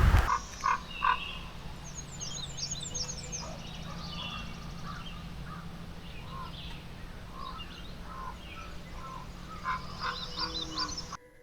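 Morning nature chorus: several birds chirping and calling over one another, with frogs calling. It cuts off just before the end.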